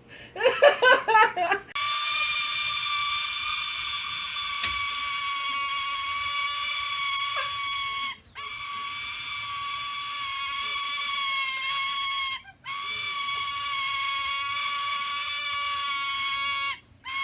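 Bird calling: a quick burst of chattering calls, then long, steady, high-pitched screeches, each held for several seconds, broken by three short pauses.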